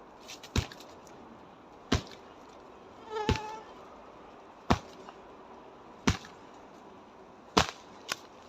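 Karate strikes landing on a dry tree trunk: sharp wooden knocks at a steady pace of about one every second and a half, seven in all. The blow about three seconds in carries a short pitched sound.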